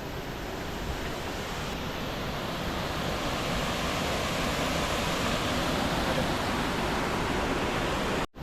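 Steady rush of a waterfall, a dense even roar of falling water. It drops out for an instant near the end.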